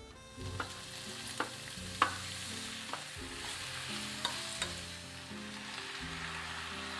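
Food frying in a pan with a steady sizzle, with a few sharp clicks of a utensil against the pan over the first five seconds.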